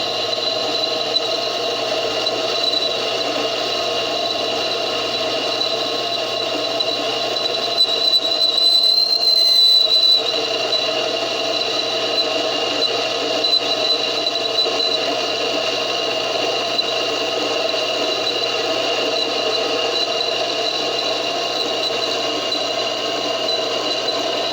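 Vevor mini benchtop metal lathe running and turning a steel shaft, the tool taking a deep roughing cut: a steady motor and gear whine with several held tones over a scraping cutting noise. It gets louder for a couple of seconds around eight seconds in.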